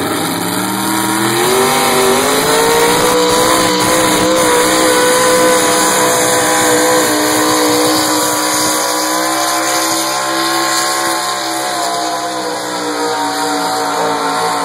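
A pulling truck's engine at a truck pull, revving up over the first couple of seconds and then held at high revs under load for the rest of the pull.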